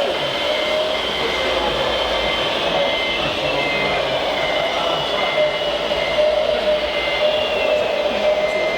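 Radio-controlled model trucks and construction machines running, with a steady electric motor and gear whine and a second whine that slowly falls in pitch. Over it, a beep repeats about twice a second, like a model's reversing warning.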